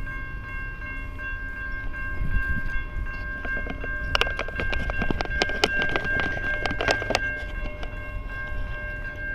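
A long train rolling past with a steady low rumble and a steady high ringing tone. About four seconds in, a quick run of sharp wheel clacks comes for about three seconds, then eases off.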